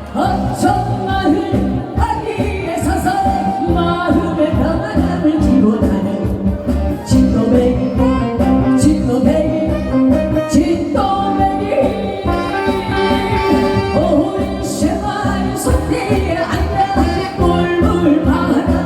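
Korean trot song sung live by a woman over instrumental accompaniment with a steady beat.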